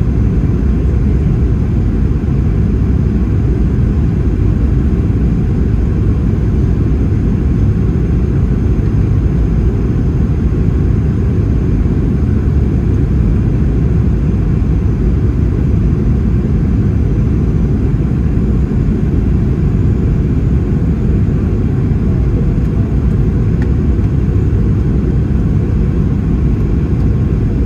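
Boeing 737-800 cabin noise: a steady low rumble of the engines and airflow heard inside the cabin, with no change in pitch or level.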